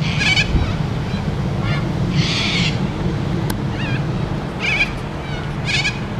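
Several birds calling from a tree: short, wavering, warbling calls repeated every second or so, with one harsher, rasping call about two seconds in, over a steady low rumble.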